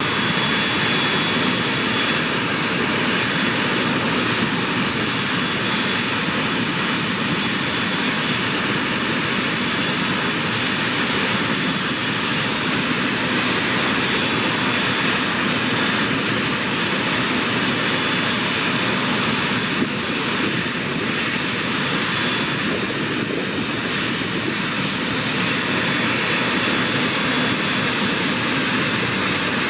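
Jet Provost's Viper turbojet running steadily on a ground run, with a loud rushing noise and a steady high-pitched whine. The whine starts to rise slightly near the end.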